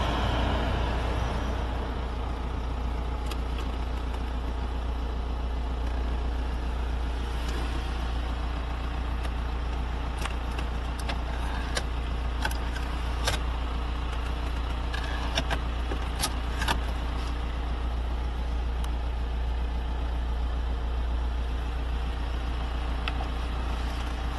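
2006 Audi A4 Avant's 2.0 TDI four-cylinder turbodiesel running steadily: an even low rumble with a few faint clicks scattered through it.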